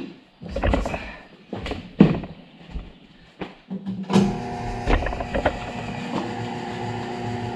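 Electric tire changer's motor running with a steady hum. It stops at the start, and between there and about four seconds in come several sharp knocks and clacks of the tire and tools on the rim. Then the motor starts again and runs steadily.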